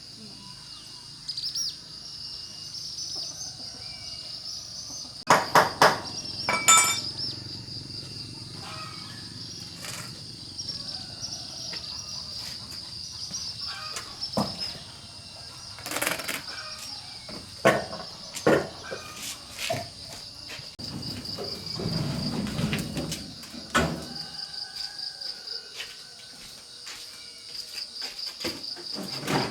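Steady, finely pulsing insect chorus of crickets or cicadas, broken by scattered sharp knocks and clatters. The loudest run of knocks comes about six seconds in, with more in the second half.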